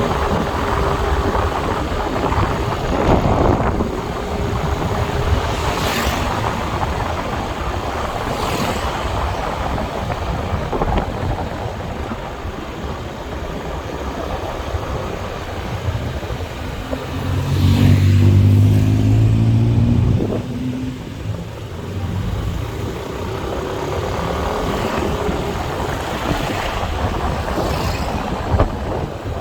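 Motorbike engine running and road and wind noise during a ride in traffic. About eighteen seconds in, a loud low droning with a stack of tones lasts some three seconds.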